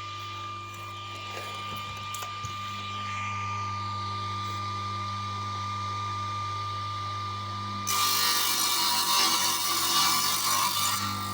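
A power tool runs steadily with a hum and a thin whine. About eight seconds in it cuts into plywood with a loud rasping noise for about three seconds.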